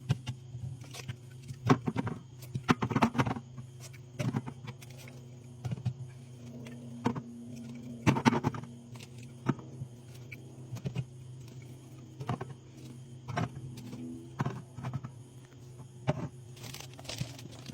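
Drink bottles and cans being set down and knocking against each other as a fridge is stocked, a string of irregular clinks and thuds, some ringing briefly. A steady low hum runs underneath.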